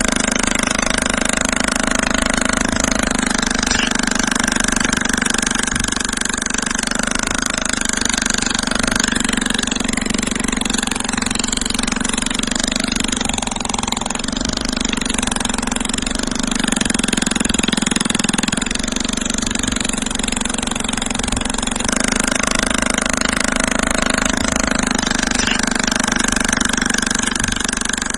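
A motor or engine running steadily, a constant droning hum that eases slightly around the middle and comes back.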